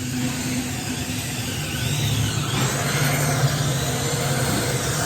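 Steady low mechanical hum with a broad noise haze, growing a little stronger about two seconds in.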